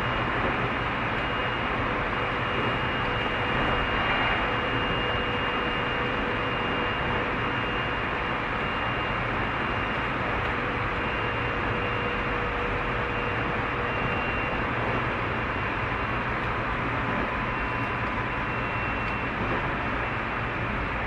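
Tobu 30000 series electric multiple unit running along the line at a steady speed. The rumble of wheels on rail is mixed with a few faint, steady whining tones from the running gear.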